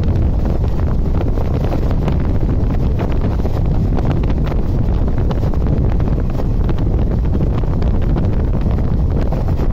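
Wind buffeting the microphone held out of the door of a moving passenger train, over the steady rumble and rattle of the coaches running on the track.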